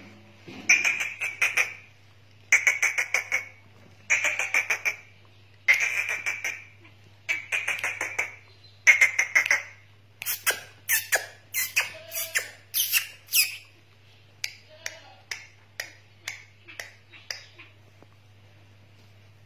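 Black francolin calling: six harsh, rattling phrases about a second long, one every second and a half or so. These are followed by a burst of louder, sharper high notes and then a few faint scattered ticks that die away. A steady low hum runs underneath.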